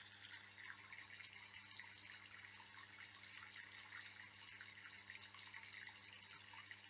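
Faint steady rain, a dense hiss of many small drops falling.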